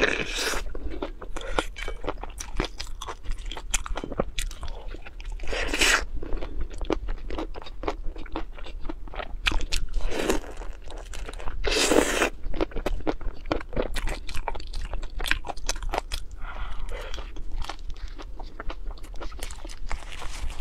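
Close-miked chewing and crunching of food in the mouth: a dense run of small crunches and clicks, with louder stretches about six, ten and twelve seconds in.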